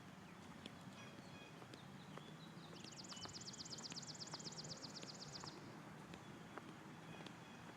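Faint outdoor ambience with scattered light ticks; about three seconds in, a songbird sings one fast, even trill of high notes, about ten a second, lasting nearly three seconds.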